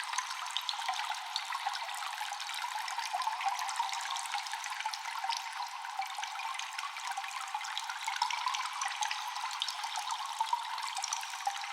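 Cave ambience of constant dripping water with an echo: a dense patter of many drops over a steady wash of trickling water, all thin and high with no low rumble.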